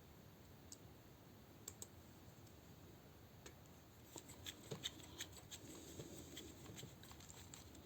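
Faint clicks and taps of small plastic toy parts being handled and a tiny screw being put back in, a few single ticks early and a busier run of clicks in the second half.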